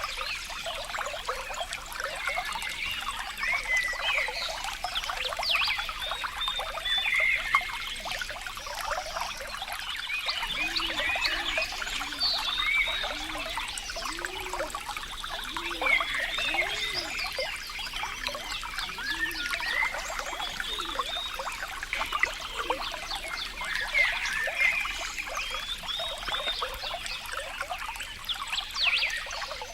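Water trickling and splashing, a dense, continuous patter, with a run of short, low rising-and-falling notes through the middle.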